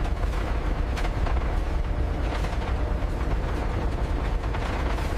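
Factory machinery noise: a steady low rumble with scattered clanks and clicks.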